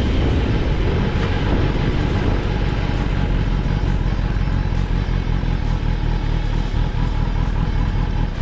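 Kawasaki ZX-10R's inline-four engine running steadily while riding at an even pace.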